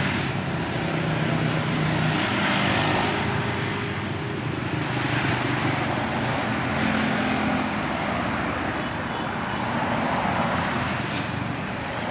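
Street traffic: motor vehicles passing one after another, engine hum and tyre noise swelling and fading several times.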